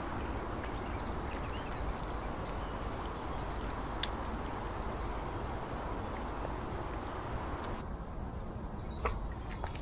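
Outdoor lakeside ambience: a steady rumbling background hiss with faint bird chirps, a sharp click about four seconds in, and an abrupt change in the background near the end.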